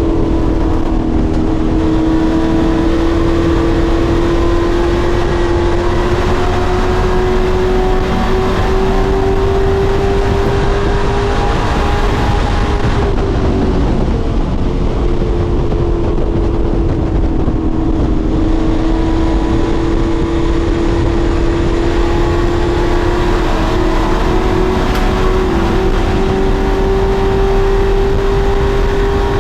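Pro Truck race truck engine running hard at speed: its pitch climbs slowly, drops about thirteen seconds in, then climbs again.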